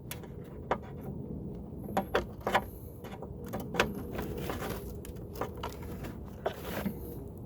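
Irregular small clicks and light scraping of a tool working at stubborn plastic clips on a Husqvarna AWD mower, the clips not yet coming free.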